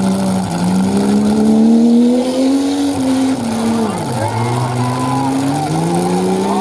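Engines of several stock trucks revving hard, their pitch climbing as they accelerate. It drops sharply about four seconds in as one lets off, then climbs again.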